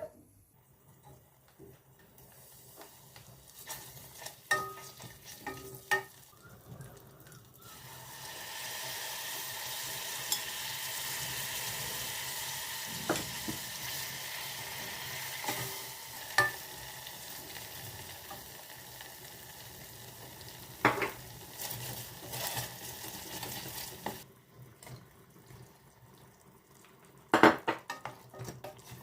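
Food frying in a pan, a steady sizzle that starts about a quarter of the way in and stops abruptly about three quarters through, with clinks and knocks of a utensil against the pan before and after.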